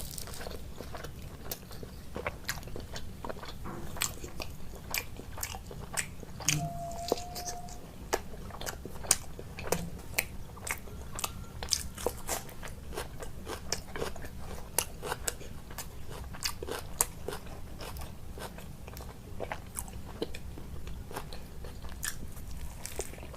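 Close-miked chewing and biting of food, with a constant stream of sharp, crunchy clicks from the mouth.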